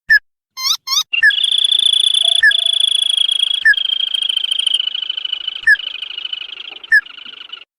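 Lure-recording call of the crake known in Indonesia as tikusan or sintar padi. First comes a few quick upswept notes, then a long, rapid, high trill of about six seconds. Single sharp call notes cut in roughly every second throughout, and the trill fades a little near the end.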